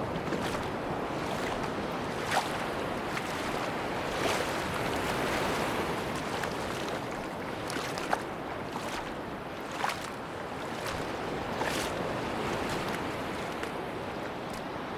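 Sea waves washing steadily on a beach, with a sharp short click or crunch roughly every two seconds.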